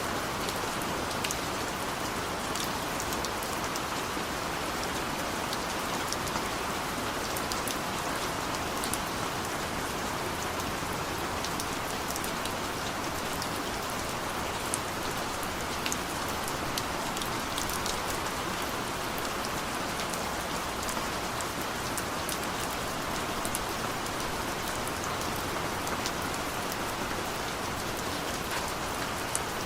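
Steady heavy rain, with many sharp drip and drop taps in it.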